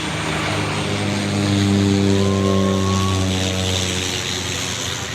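Twin Otter's twin turboprop engines and propellers droning as the plane passes close by, loudest about two seconds in, then fading into a duller hum.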